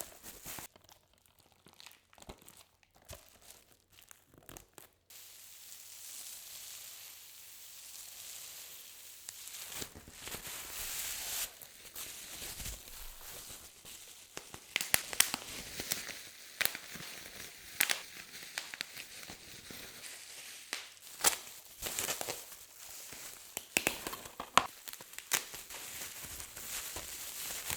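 Plastic wrapping on a DVD being torn and crinkled, with a run of sharp clicks and taps on the hard plastic case from about halfway through.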